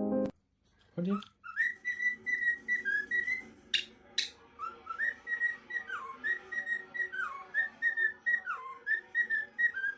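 A parrot whistling a long run of short repeated notes at about one pitch, now and then a note sliding down, with two sharp clicks around four seconds in.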